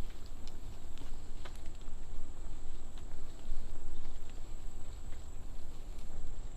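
Walking outdoors on a nature trail: faint footsteps and a low rumble, with a steady high-pitched insect drone above.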